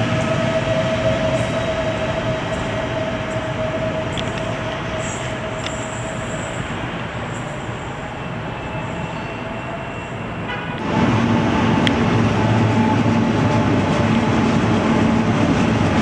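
Passenger train running past on the rails, a steady rumble with a held whine that slowly fades. About eleven seconds in, the sound jumps abruptly louder to another close train running, with a lower steady drone.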